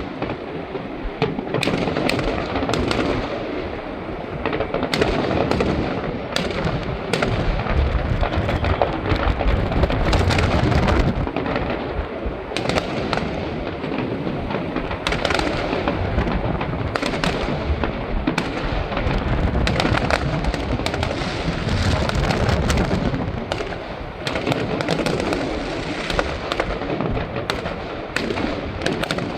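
Fireworks display going off without pause: a dense run of booming shell bursts and sharp crackling, many overlapping.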